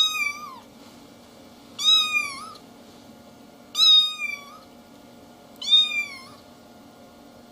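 Domestic cat meowing four times, evenly spaced about two seconds apart, each a short call that bends in pitch.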